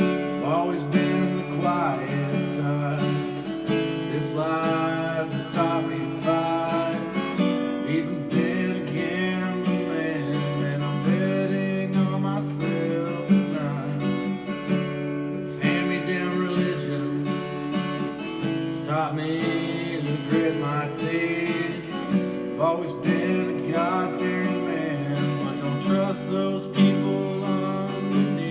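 Acoustic guitar strummed in an instrumental break of a country song, with no singing.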